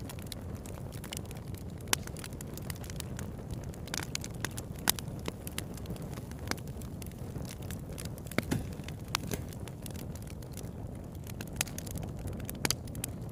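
Campfire burning: a steady low rumble of the flames with wood crackling throughout, punctuated by a few louder sharp pops.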